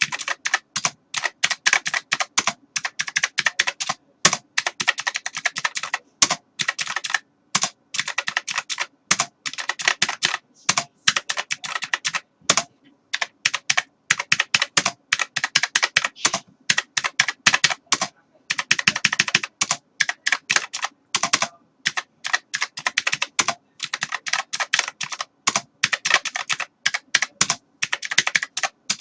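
Computer keyboard typing: fast runs of sharp key clicks in bursts, with short pauses between them.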